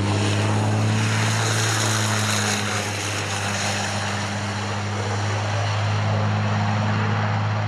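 Racing trucks' diesel engines running in a steady low drone, with a wide hiss of tyre and wind noise over it; the pitch barely changes.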